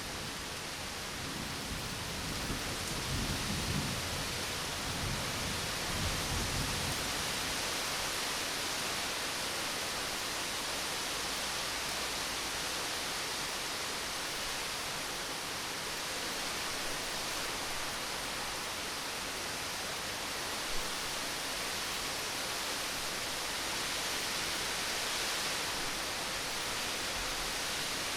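Steady rain hissing, with a low rumble of thunder in the first several seconds that dies away, leaving the rain alone.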